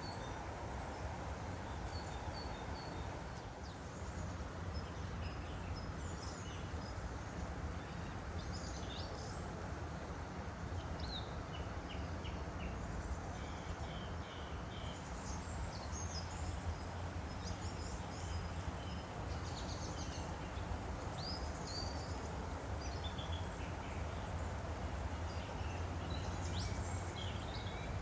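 Woodland stream flowing steadily, with birds calling in short high chirps now and then over the water.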